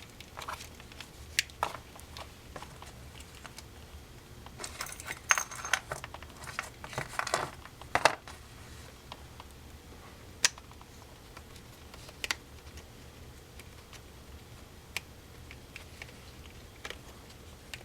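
Small hard clicks and taps of plastic headphone parts and small metal hardware being handled and fitted together at close range, a busy run of them in the middle and single clicks now and then after.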